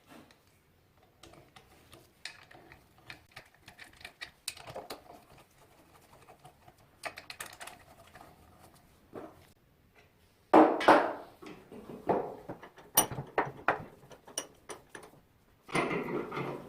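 Small engine parts and hand tools handled on a workbench during a two-stroke engine rebuild: a run of clicks and taps, with two louder rattling bursts, one about ten seconds in and one near the end.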